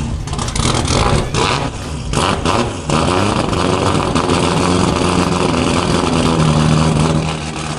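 A 2014 Hyundai Genesis Coupe's 3.8-litre V6, fitted with aftermarket headers, idling steadily. There are a few knocks and rustles in the first three seconds.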